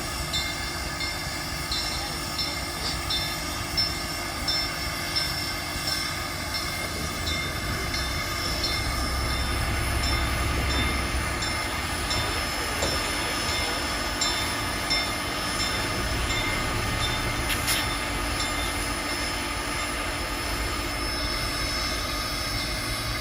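East Broad Top No. 16, a 2-8-2 steam locomotive, standing under steam: a steady hiss and mechanical running with several steady tones, and light regular ticking in the first few seconds. One sharp click comes near the end.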